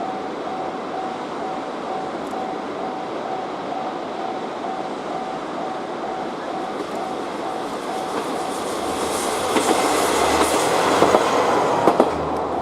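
A train approaching and passing, getting louder over the last few seconds, with sharp clicks of the wheels near the end. An evenly repeating ringing tone sounds through most of it.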